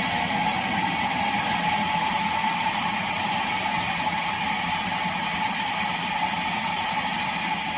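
iRobot Roomba Combo i5+ self-emptying dock's suction motor running during the bin evacuation: so loud, a rushing of air under a high whine that levels off about a second in and then holds steady. The owner thinks the dock is probably blocked, as it often is, and afterwards finds nothing was emptied.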